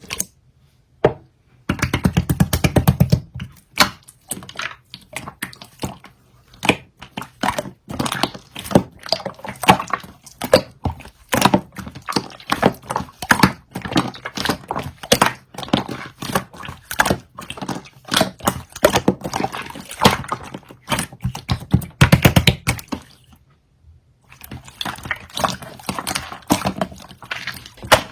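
Slime being squeezed and pressed by hand, giving a dense run of sticky clicks and small pops. There are faster crackling runs about two seconds in and again near twenty-two seconds, then a brief pause.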